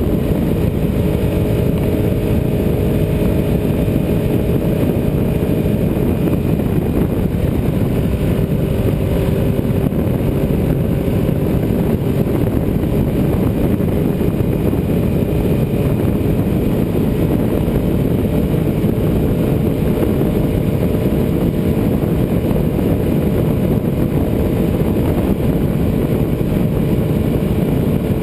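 Ducati 748R's V-twin engine running at a fairly steady speed, heard from on the moving bike under a constant rush of wind and road noise. The engine note shifts slightly about six seconds in.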